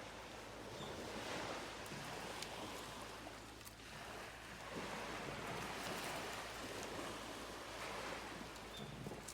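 Sea waves washing on the shore, a steady rush that swells and eases in slow surges.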